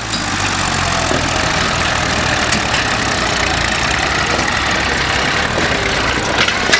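Tractor diesel engine running steadily with a low, even rumble. There is a short sharp knock near the end.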